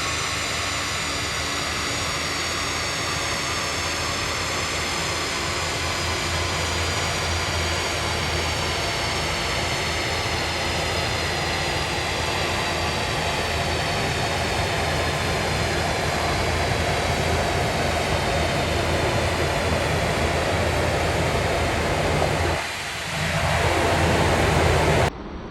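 Mercedes C63 AMG's twin-turbo 4.0-litre V8, de-catted with downpipes, running under full load on a rolling-road dyno, getting steadily louder as it pulls. It dips briefly near the end, comes back up, then cuts off suddenly.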